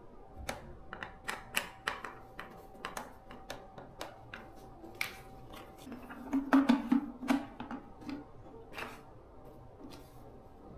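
Irregular sharp clicks and taps, like small hard parts being handled, with a louder clatter of knocks about six to seven and a half seconds in. A faint steady tone runs under the first half.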